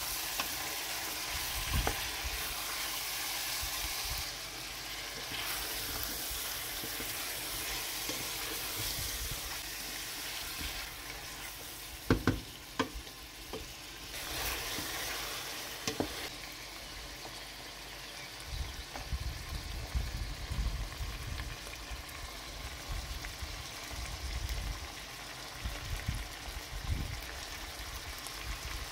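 Chicken pieces frying in oil in a stainless steel pot: a steady sizzle, with a wooden spatula stirring and scraping, and a few sharp knocks against the pot partway through.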